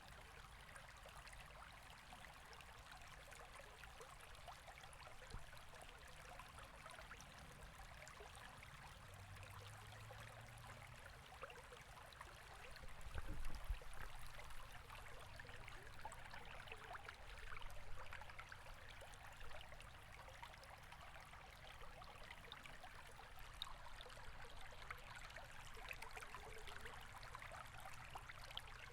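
River water flowing steadily in a continuous faint rush, with a brief low thud about halfway through.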